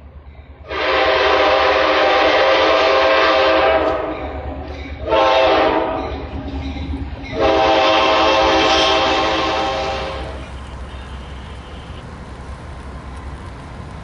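Diesel locomotive air horn sounding three blasts: a long one, a short one, then another long one.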